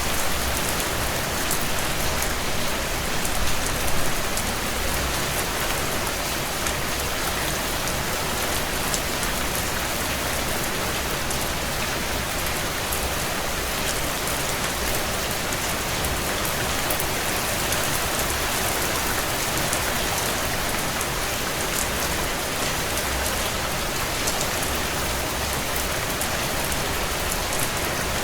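Heavy rain falling steadily on a tin roof: a dense, even hiss of rain with individual drops ticking sharply through it.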